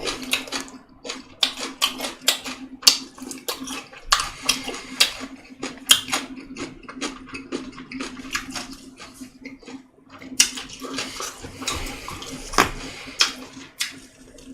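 Close-up wet chewing and mouth sounds of a person eating: a run of irregular short smacks and clicks. A faint steady hum sits underneath.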